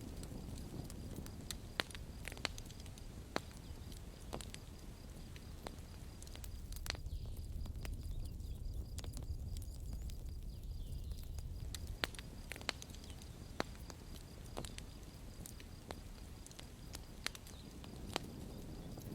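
Campfire burning: a steady low rumble of flames with sharp crackles and pops at irregular intervals.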